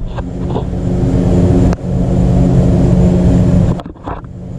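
Volvo wagon engine running at a steady idle, just after a spark plug and plug wire change. It dips briefly twice, about two seconds in and again near the end.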